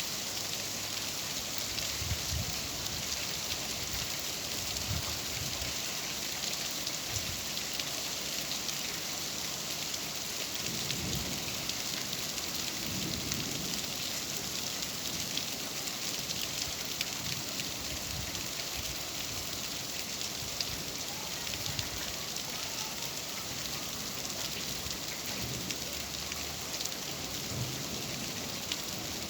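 Steady, heavy rain falling, a dense even hiss of drops on surfaces, with a few soft low rumbles now and then, the longest about a third of the way in.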